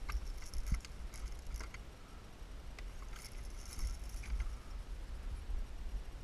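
Fishing gear being handled in a canoe: scattered light clicks, taps and a brief metallic jingle, bunched in the first second and again around three to four seconds in, over a steady low rumble.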